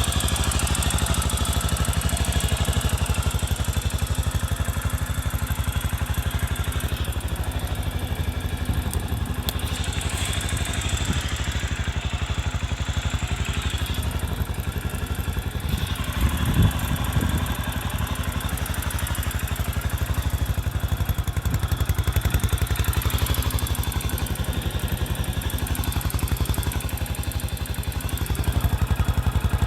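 Kawasaki Estrella RS's air-cooled single-cylinder four-stroke engine idling steadily through its stock muffler, with even, rapid exhaust pulses. A short thump about halfway through, and the engine note rises slightly near the end.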